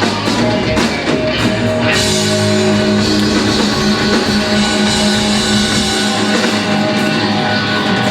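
Live blues-rock band with electric guitar and drum kit playing loud: drum hits for the first couple of seconds, then a long held chord with cymbals ringing.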